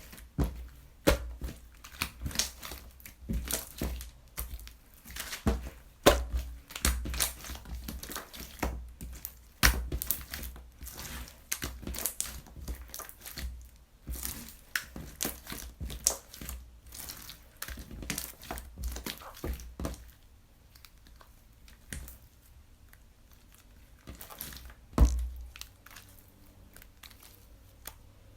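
Slime being squeezed, stretched and pressed by hand, making dense irregular crackling and popping. It eases to scattered clicks after about twenty seconds, with one sharp knock a few seconds before the end.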